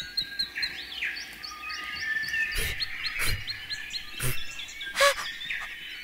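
Birds chirping: many short high chirps repeated in quick runs, as a cartoon forest ambience.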